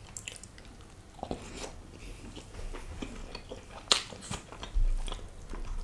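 A man chewing and biting a piece of naan: scattered wet mouth clicks, with a sharper click about four seconds in.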